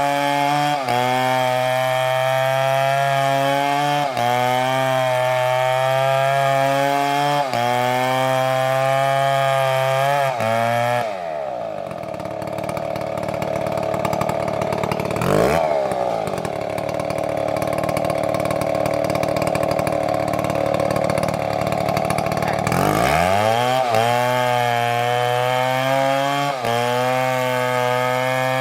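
Big MS720 chainsaw at full throttle with small regular dips in speed. About eleven seconds in the engine speed drops sharply and stays low, with one quick rev near the middle. It climbs back to full speed a few seconds before the end.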